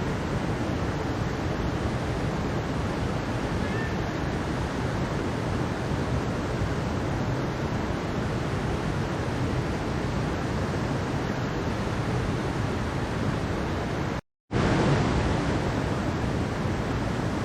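Mountain stream water rushing steadily in a dense, even hiss. Near the end it cuts out completely for a fraction of a second, then resumes.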